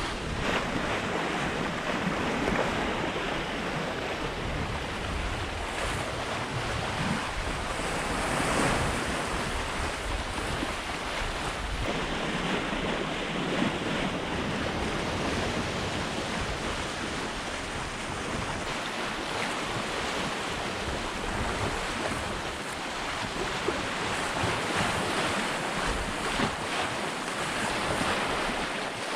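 Sea water rushing and splashing along the hull of a sailing yacht under way, with steady wind noise on the microphone, swelling gently now and then.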